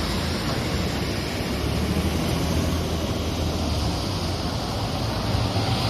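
Steady low vehicle rumble, swelling slightly about two seconds in.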